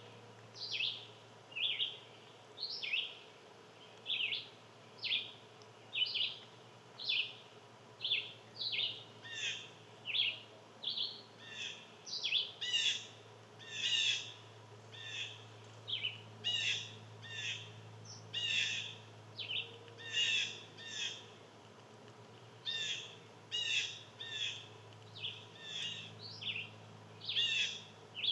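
Songbirds calling: short downward-sliding chirps repeated about once or twice a second, with a second bird overlapping through much of the middle.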